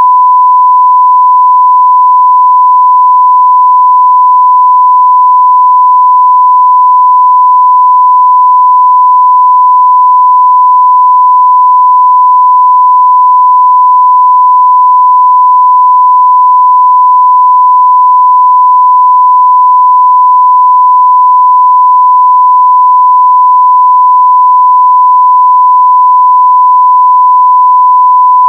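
Steady 1 kHz sine-wave test tone at full level, one pure unchanging pitch.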